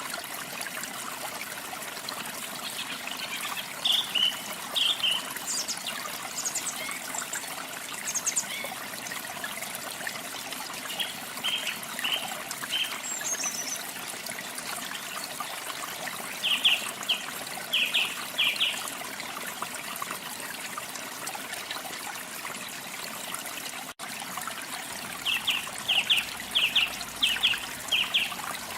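Steady rush of waterfall water, with songbirds singing over it in repeated runs of short, sharp high chirps, several notes a second, loudest in the last few seconds.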